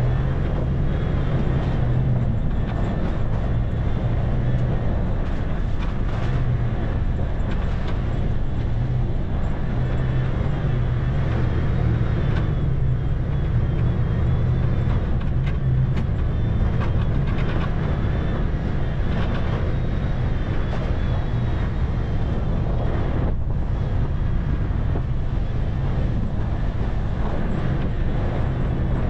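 Toyota FJ Cruiser's 4.0-litre V6 running at steady low revs while the truck drives slowly up a hard-packed, frozen dirt trail in two-wheel drive, a continuous low drone with road noise.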